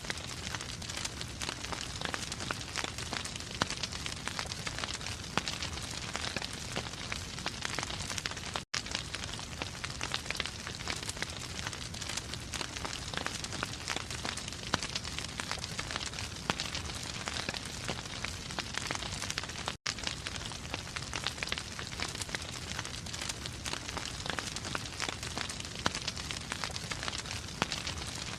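Wood fire in a fireplace crackling steadily, with many small pops and snaps over a constant hiss. The sound cuts out for an instant twice, about nine and twenty seconds in.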